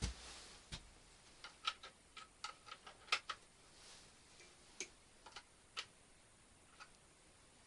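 A series of irregular light clicks and taps, some with a short ring, coming quickly through the first half and then more sparsely.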